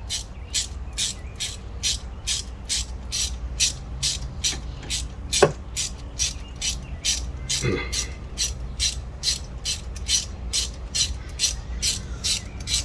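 Socket ratchet clicking steadily, about three to four clicks a second, as a freshly broken-loose spark plug is backed out of a HEMI V8's cylinder head. One sharper knock about five seconds in.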